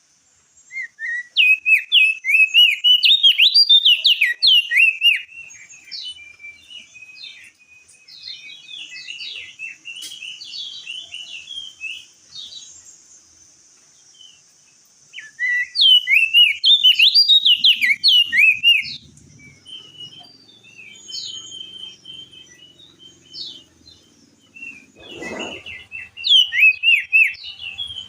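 Crested white-eye singing: loud, rapid runs of sharp chattering, whistled notes in two long bursts, with softer scattered phrases between and after.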